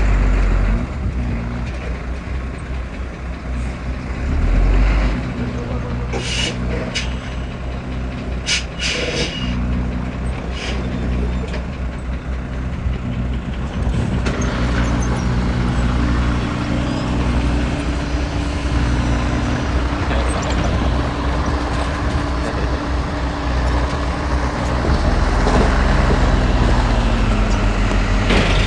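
Heavy machinery's diesel engines running steadily, with several short sharp hisses or clanks between about six and eleven seconds in. The engine noise grows louder near the end.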